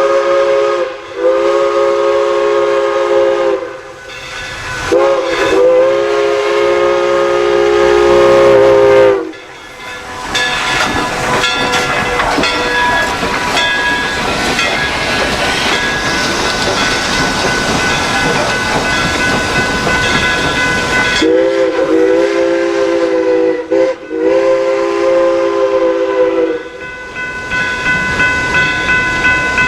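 Steam locomotive chime whistle, a three-note chord, blown in two long blasts. About twelve seconds of steam hiss follow, then the whistle sounds again in a blast broken into short pieces.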